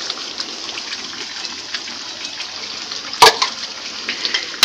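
Spice paste sizzling steadily in an aluminium wok, with one sharp knock of the metal spatula against the pan about three seconds in.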